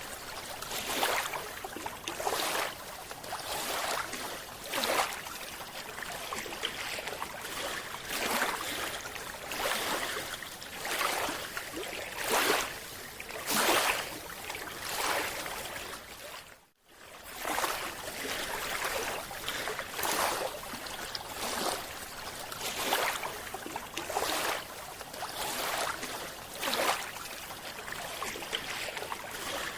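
Underwater water noise with repeated swells of bubbling and rushing, typical of a scuba diver's regulator breathing out bubbles; the sound cuts out for a moment partway through.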